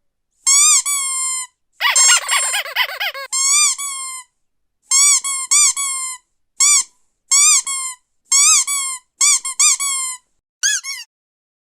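Squeaky rubber dog toy squeezed over and over: about a dozen short, high squeaks that each rise and fall in pitch, with brief gaps between them, and a rougher, buzzier squeal about two seconds in.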